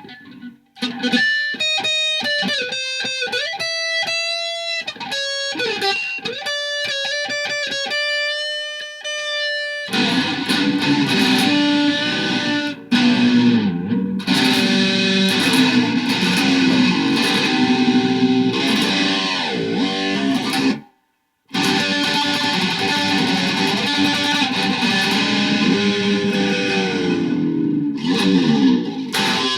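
Electric guitar played through effects: about ten seconds of quick, separate clean notes stepping up and down in pitch, then a dense distorted sound with pitch bends from the whammy bar. It stops for half a second about 21 seconds in, then carries on.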